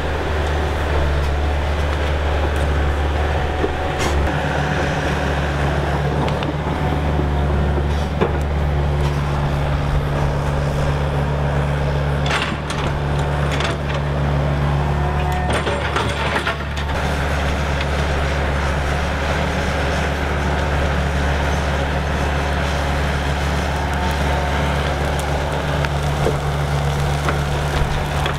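Tracked excavator's diesel engine running steadily under load, with occasional sharp knocks as it works dirt and roots off a tree stump.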